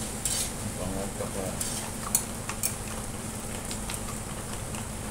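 Fried rice sizzling in a hot pan while a spatula stirs and scrapes it, with several sharp scrapes and clinks against the pan.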